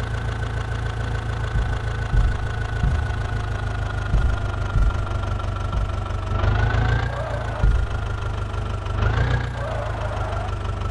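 Diesel engine running steadily under a soil-loading job, briefly rising in pitch about six and a half seconds in and again about nine seconds in.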